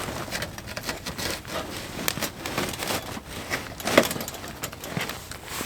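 Wood campfire crackling and popping as it takes hold, a dense run of sharp snaps with one loud crack about four seconds in.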